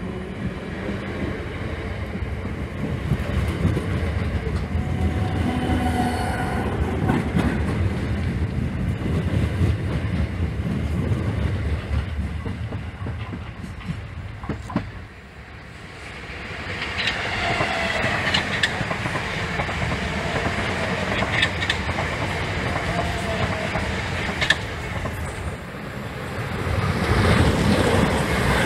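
South Western Railway suburban electric trains running past at close range: a steady rumble with wheels clattering over rail joints. The sound dips about halfway through, then a second train passes with high whining and squealing tones and sharp clacks over the joints.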